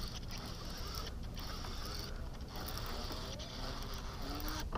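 Fishing reel being cranked steadily while a hooked fish is reeled in.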